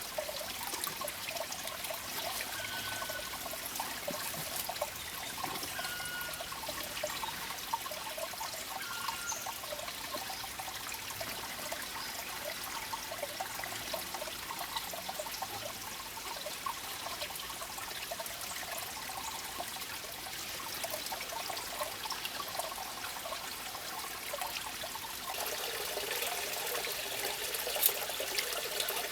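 Running water trickling and gurgling steadily, like a small stream; it grows louder and fuller a few seconds before the end.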